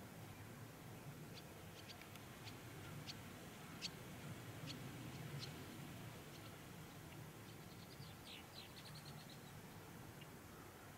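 Faint small birds chirping: scattered short, high chips, with a quick run of repeated notes about three-quarters of the way through, over a low steady hum.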